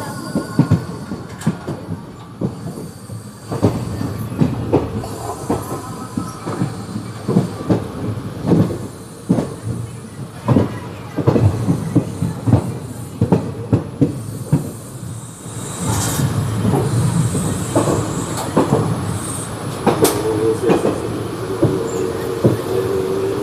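Kaveri Express passenger coaches running on the track: wheels rumble and clatter with irregular sharp knocks over rail joints. A wavering squeal comes in about twenty seconds in.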